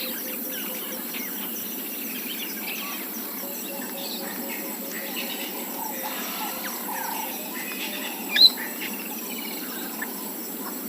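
Bush ambience of many birds chirping over a steady bed of insects. About eight seconds in there is one loud, brief call with a rising pitch.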